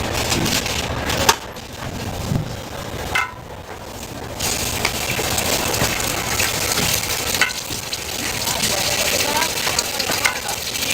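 Food sizzling on a hot pan, a steady hiss that drops away for about a second around the middle and then comes back, with a few sharp clicks of cooking utensils.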